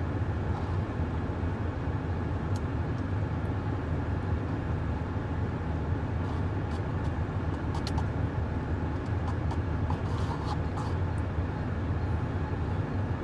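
Steady low rumble of a pickup truck's engine running, heard from inside the cab, with a few faint light clicks and rustles.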